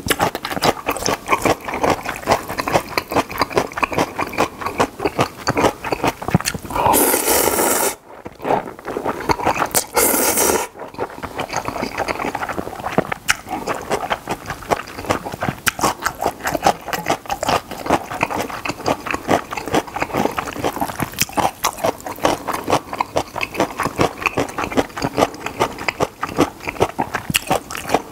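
Close-miked, wet chewing of jjapagetti black-bean noodles and crunchy yellow pickled radish (danmuji): rapid mouth smacks and crunches throughout, with two brief louder rushing sounds about seven and ten seconds in.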